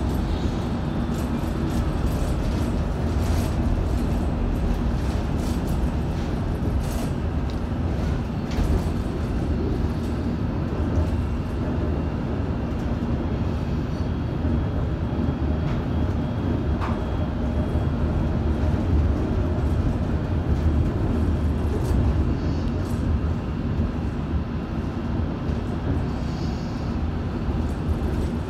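London Underground S8 stock electric train running at speed, heard from inside the passenger car: a steady low rumble of wheels on rail with a faint hum and a few light clicks.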